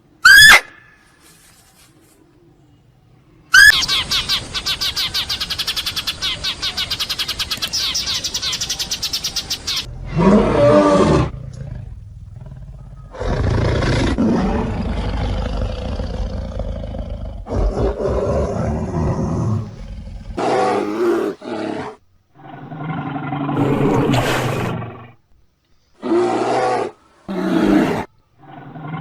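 A series of big-cat roars and growls in separate bouts, some long and some short. They are preceded near the start by a brief, very loud high whistle and then about six seconds of rapid pulsing buzz.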